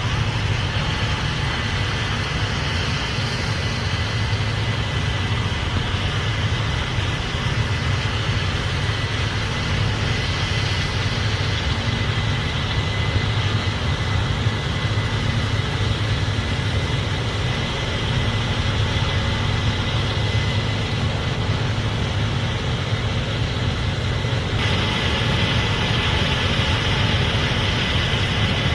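Case IH Axial-Flow 8250 combine running steadily: a constant low mechanical drone with a thin high whine over it. About 25 seconds in, a higher hiss grows louder.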